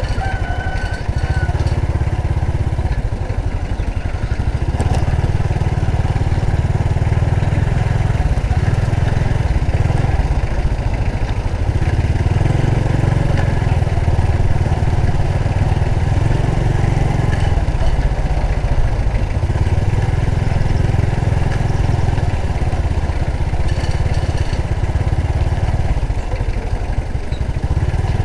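Honda Supra X 125 FI motorcycle's single-cylinder four-stroke engine running steadily while the bike is ridden.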